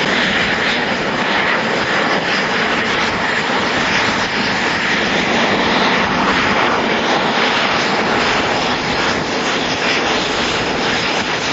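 Eurofighter Typhoon jet engines running: a loud, steady jet noise with a faint high whine.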